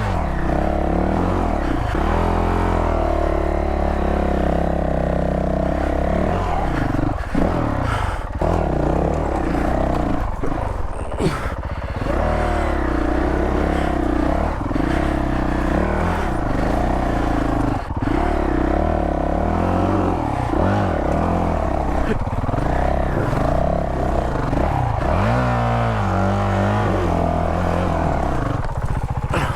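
Honda CRF450L's single-cylinder four-stroke engine revving hard again and again, its pitch rising and falling throughout, with a few sharp knocks mixed in.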